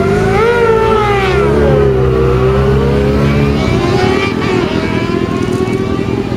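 Sport motorcycle engines at a drag strip: one high-revving engine climbs and falls in pitch, then climbs again, over steady lower engine notes idling underneath.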